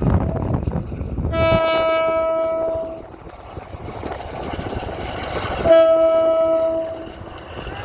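Diesel locomotive horn sounding two long blasts, the second, about four seconds after the first, starting sharply and louder.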